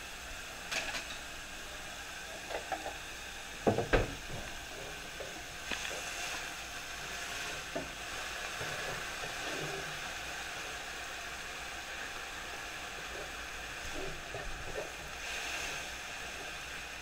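Minced garlic and onions sizzling in a hot skillet, a steady hiss, with a few knocks of a utensil against the pan, the loudest about four seconds in.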